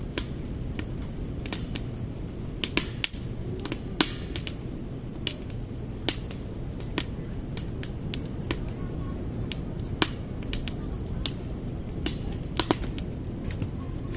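Firewood crackling as it burns in a stainless-steel secondary-combustion fire pit: sharp, irregular pops over a steady low rumble.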